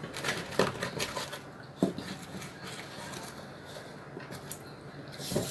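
Close-up eating sounds of a person chewing pizza: wet mouth clicks and smacks, with a single knock just under two seconds in.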